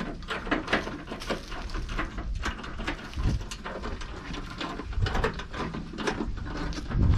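A string of light clicks and knocks, as bolts and tools are handled while fitting the truck's fender, over a steady low rumble.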